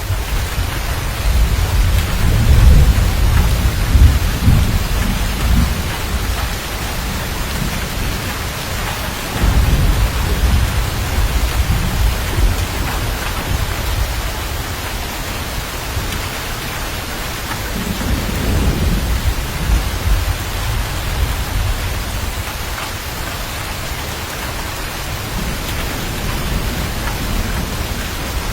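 Steady heavy rain with rolling thunder: long low rumbles swell and fade several times, loudest near the start, about 9 seconds in and about 18 seconds in, over a constant hiss of rain.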